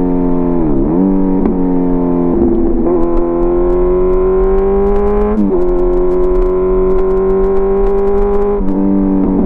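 Kawasaki Z900's inline-four running through an SC Project CRT aftermarket exhaust under acceleration. The engine note climbs steadily and drops sharply as it shifts up, three times in a row.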